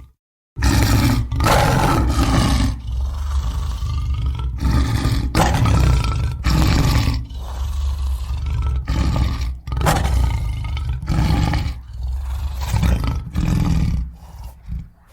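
Wolfman monster roar sound effect: deep, loud roars one after another following a brief silence at the start, dying down near the end.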